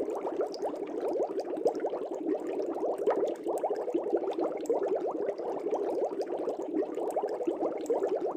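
Aquarium air bubbles rising and bursting in a fish tank: a steady, dense bubbling.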